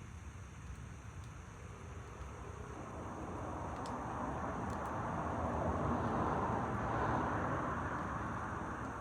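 A vehicle passing at a distance: its road and tyre noise swells over a few seconds, peaks, and fades again over a steady low rumble, with a few faint ticks.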